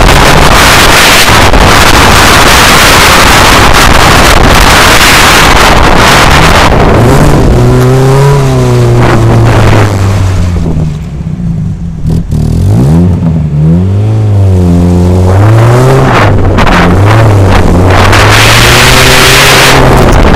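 Rally car engine heard through heavy wind and road roar on an outside-mounted camera. About halfway through the roar drops away and the engine is revved up and down several times through a tight turn, then the roar builds again as the car speeds off.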